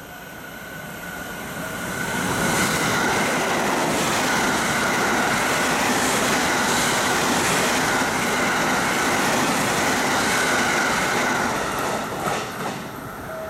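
A limited express electric train runs through the station at speed without stopping. Its wheel and rail noise swells over about two seconds, holds steady and loud for about nine, then dies away near the end with a few last clicks.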